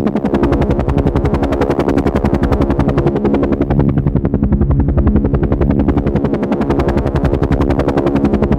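Helicopter rotor blades beating in a fast, even rhythm over a steady engine drone, without a break.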